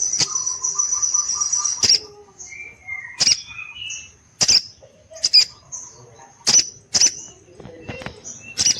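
Female sogon songbird calling energetically. A long, high, thin trill ends about two seconds in. It is followed by a series of sharp high chips about once a second, with a few lower warbled notes in between.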